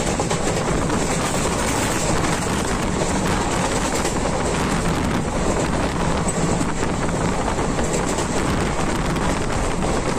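Passenger train running steadily along the track, heard from on board: a constant rumble of wheels on rails with rushing air noise.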